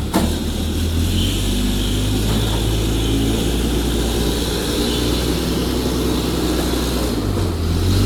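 Steady low mechanical drone of running factory machinery, with one sharp click just after the start.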